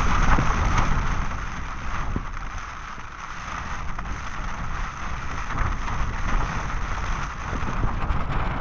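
Storm wind gusting with heavy rain pelting down, the gusts rising and falling and buffeting the microphone with a deep rumble.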